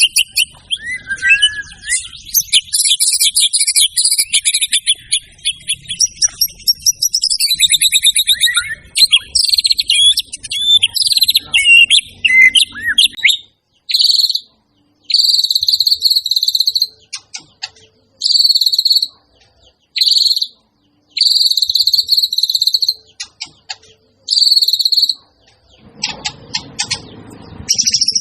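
White-rumped shama (murai batu) singing: a fast, varied run of whistles, glides and trills, then a series of about eight repeated one-second ringing notes with short pauses between them. A softer scratchy noise comes in near the end.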